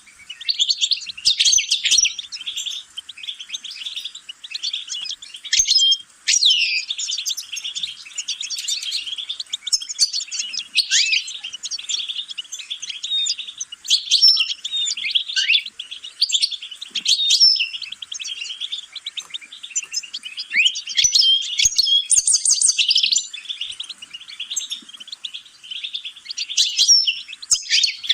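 European goldfinch singing a fast, near-continuous twittering song of rapid chirps and whistled notes, broken by a few brief pauses.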